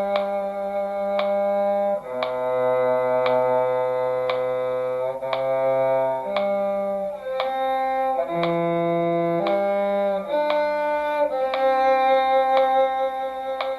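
Bowed string duet in a slow, sustained passage: an upper violin line over a lower cello line, the notes changing every second or two. A steady metronome click ticks about every two-thirds of a second underneath.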